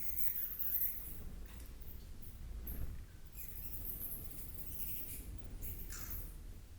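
Natural ambience: scattered faint, very high-pitched squeaks or chirps from small animals come and go over a steady low rumble.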